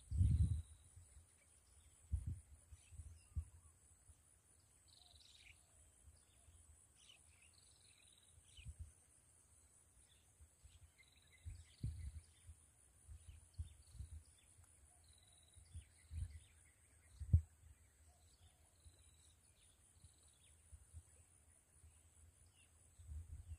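Birds chirping here and there over a steady high-pitched buzz, with a few brief low thumps scattered through.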